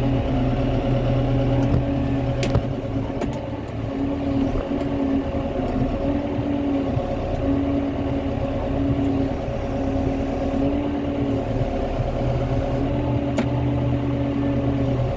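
Tractor engine running steadily while logs are being handled, with a tone in its note that rises and drops away every couple of seconds. Two sharp clicks come through, one early and one near the end.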